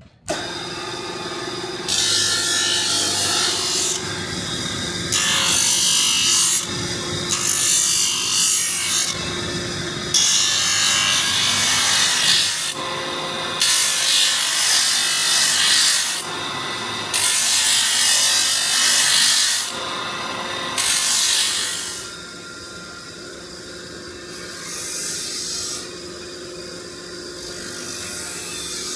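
A power sander running steadily while a workpiece is pressed against it in repeated passes of a few seconds each, every pass starting and stopping abruptly. After about 22 s the passes give way to lighter, quieter contact.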